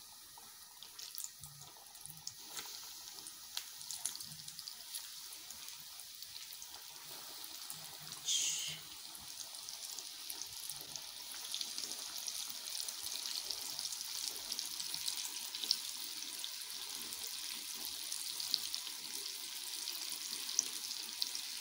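Flour-coated minced-meat kebab balls deep-frying in hot cooking oil: a steady sizzle with small crackling pops that grows louder as more pieces go into the pan, with a brief louder hiss about eight seconds in.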